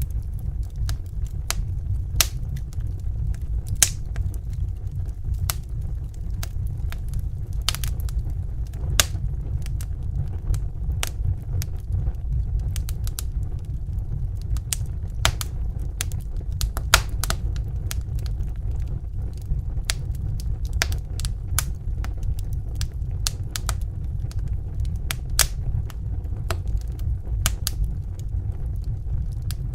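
Wood fire crackling and popping, with sharp irregular snaps over a steady low rumble of the flames.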